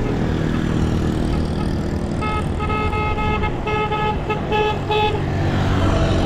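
Vehicle horn honking in a run of blasts, the first ones longer and the last few short toots, over a steady low rumble of road traffic.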